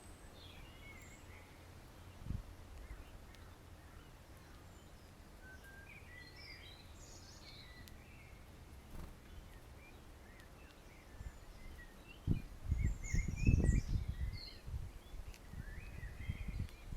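Small songbirds chirping and twittering in short scattered calls. Over about two seconds in the second half, a run of louder low thumps and rumbling sounds close to the microphone.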